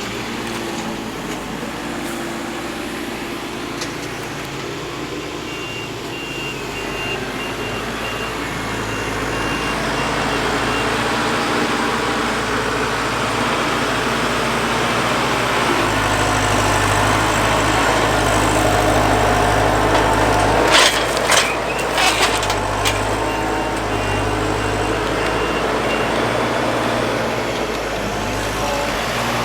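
Heavy diesel engine running and working harder from about halfway through, with a reversing alarm beeping in two stretches and a few sharp metal clanks near the two-thirds mark.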